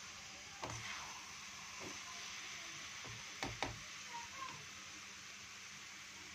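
Apple halwa sizzling faintly in ghee in a kadhai, with a few knocks and scrapes of a metal slotted spoon against the pan as it is stirred; the loudest two knocks come close together about three and a half seconds in.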